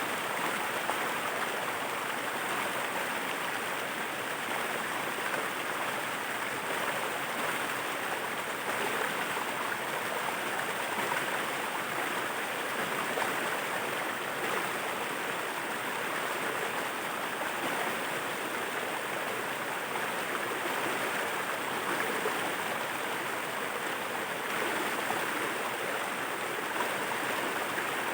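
Small waterfall, its water rushing and splashing in a steady, unbroken noise.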